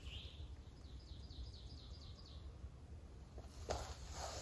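A small songbird singing a quick run of about eight short, falling high notes lasting a little over a second, with a single brief chirp just before it, over a low steady background rumble. A single sharp click near the end.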